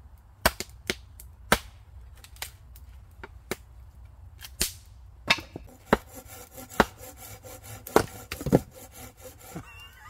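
Firewood being chopped: sharp, loud wooden cracks at irregular intervals, a few in the first half and coming thicker in the second half.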